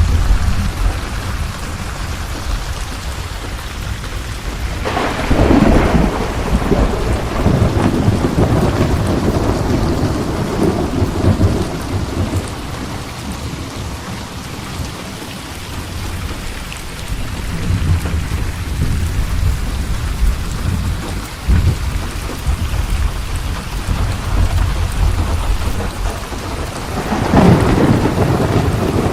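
Thunderstorm: steady heavy rain with low rolling thunder throughout, and two sharper thunderclaps, one about five seconds in and another near the end.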